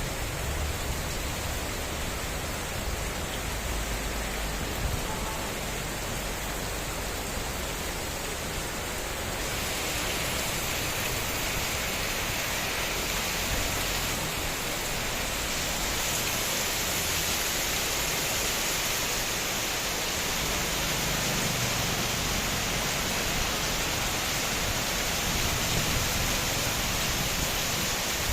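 Heavy rain falling with a steady hiss that grows brighter and a little louder about ten seconds in.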